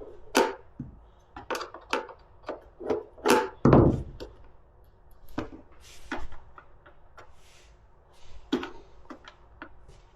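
Irregular clicks and knocks of hand work on a Razor MX650 dirt bike's Phillips screws and plastic body panels, with one heavier thump a little under four seconds in.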